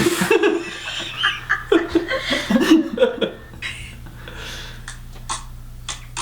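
Men laughing, loudest in the first three seconds, then trailing off into short breathy bursts.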